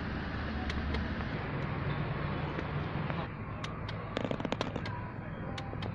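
Datsun GO's three-cylinder petrol engine idling steadily, heard from inside the cabin. A quick run of sharp cracks or clicks comes from about three and a half to five seconds in.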